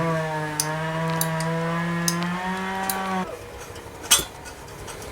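A man's voice holding one long, low, steady hum for about three seconds, with small sharp clicks of parts being handled; a louder click comes about four seconds in.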